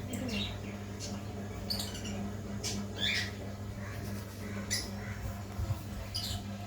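Baby parrot giving short, high squawking calls, about five of them spread over several seconds, over a steady low hum.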